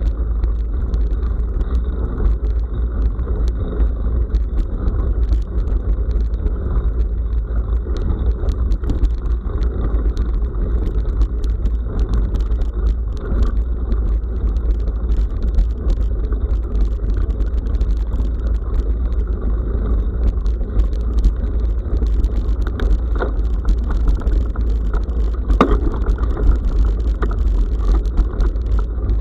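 Steady low rumble of wind buffeting an action camera's microphone on a moving bicycle, with the frequent small clicks and knocks of the bike rattling over a rough forest track.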